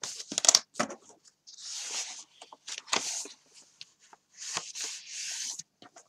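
Book pages being folded and creased by hand: a run of paper rustles and swishes, with short clicks and taps of the paper in between.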